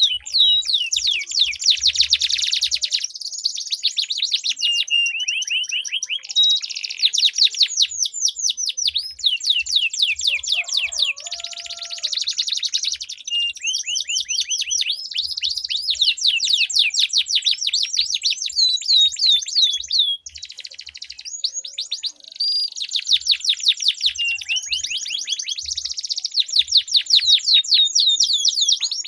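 Domestic canary singing long rolling trills: phrase after phrase of very fast repeated sweeping notes, high-pitched, with the tempo and pitch changing between phrases.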